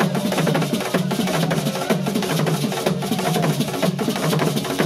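Drumming music with a dense, steady beat of many drum strokes.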